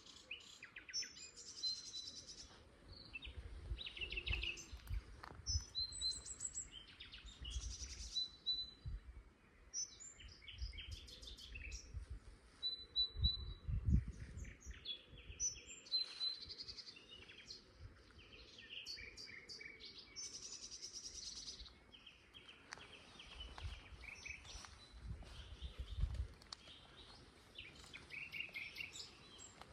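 Common nightingale singing loudly: a continuous run of varied phrases of whistles, rapid repeated notes and buzzy trills, with short pauses between them. Low rumbling comes and goes underneath.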